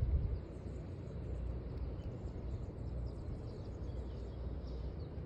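Small birds chirping faintly over a steady low rumble, with a brief louder low thump right at the start.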